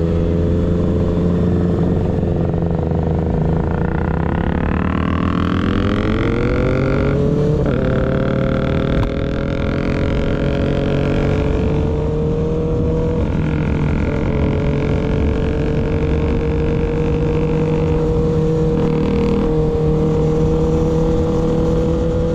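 Kawasaki ZX6R inline-four through a baffle-less M4 GP19 slip-on exhaust, riding under way. It accelerates with rising pitch from about 4 seconds in, drops briefly near 7.5 seconds as an upshift, then holds a steady cruise with its pitch creeping slowly up.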